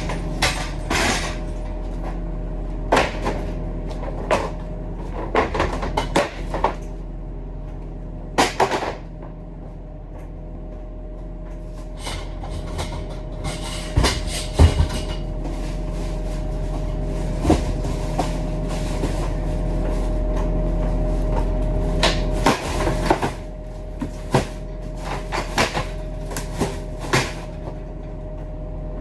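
A truck's engine running steadily under irregular sharp knocks and clatters, some single and some in quick clusters.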